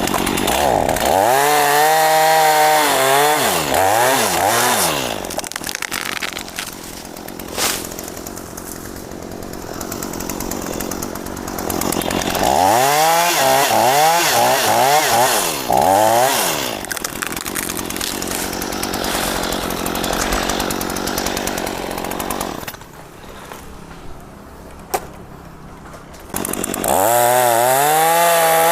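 Two-stroke chainsaw cutting into a mahogany tree, revving high in three stretches whose pitch wavers as the chain bites, dropping back to a lower run between them.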